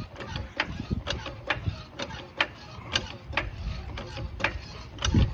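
1955 Ford Thunderbird's V8 idling with a steady mechanical ticking, about two ticks a second, over a low rumble; a dull thump near the end.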